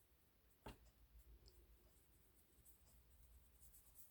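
Near silence, with faint scratching of an ink brush dabbed against the paper edge and one small click less than a second in.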